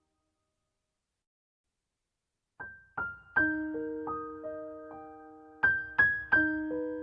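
Background piano music: silence for about two and a half seconds, then a slow new piano piece begins with single struck notes that ring and fade.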